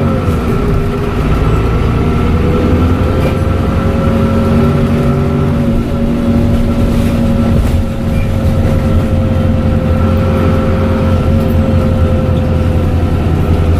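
Dennis Trident bus engine running under steady load, a low drone with a steady high turbocharger whistle over it. The whistle's pitch dips briefly near the start, then rises back and holds steady.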